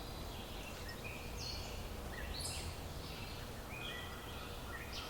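Several forest songbirds singing, their short chirping and warbling phrases overlapping, over a low steady background rumble.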